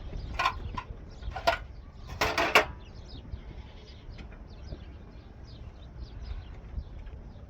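Livestock bleating: a couple of short calls in the first second and a half, then a louder call a little over two seconds in, followed by faint high chirps.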